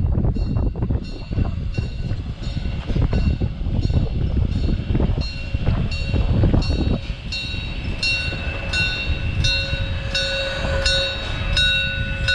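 Steam-hauled retro train rolling slowly into a station: a low rumble of the carriages, with a high squeal repeating about twice a second that becomes steadier and louder near the end as the train slows.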